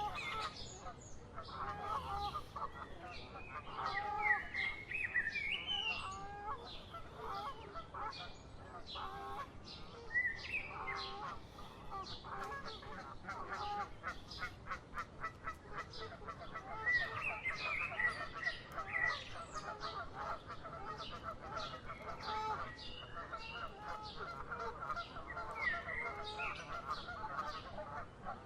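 Several birds calling continuously, a dense run of short repeated calls with higher rising notes mixed in.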